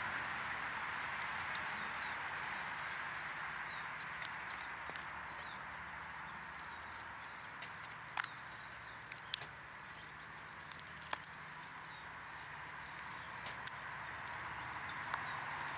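Small wild birds chirping and twittering at a garden bird table, over a steady background hiss, with a few sharp taps and clicks scattered through.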